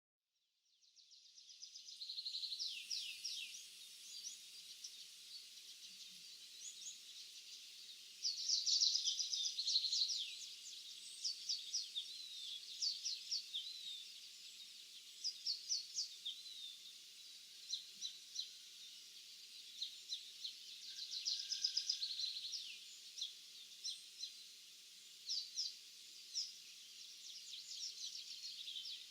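Several small birds singing and chirping in a field: dense runs of short high notes and trills, loudest around a third of the way through, over a faint steady hiss of morning ambience. It fades in over the first couple of seconds.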